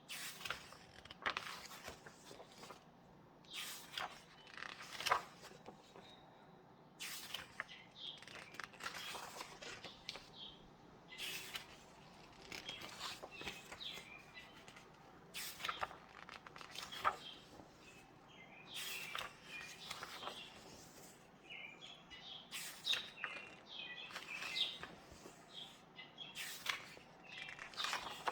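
Paper pages of a book being turned and handled: irregular rustles and flicks of paper, a few each second.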